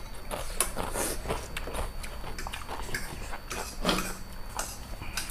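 Close-miked mouth sounds of eating instant noodles: chewing and wet smacking in a run of irregular soft clicks, with one louder click about four seconds in.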